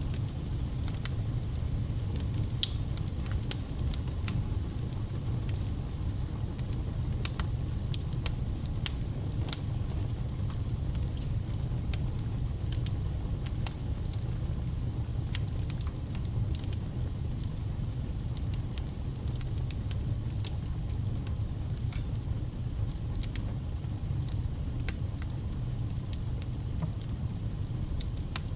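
Wood fire burning with a steady low rumble and frequent sharp crackles and pops at irregular intervals.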